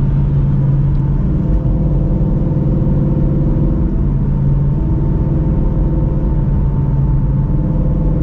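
Shelby GT350's 5.2L Voodoo flat-plane-crank V8, fitted with long-tube headers, an X-pipe and a Borla cat-back exhaust, running at a steady cruise with a deep exhaust drone.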